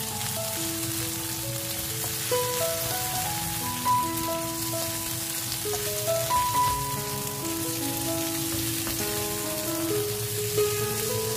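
Green beans sizzling steadily as they sauté in hot oil in a wok, under background music of slow, held notes.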